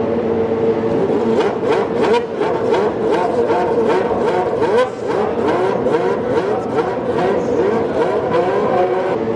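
Racing car engines revving, several rising pitches overlapping one another with no letup.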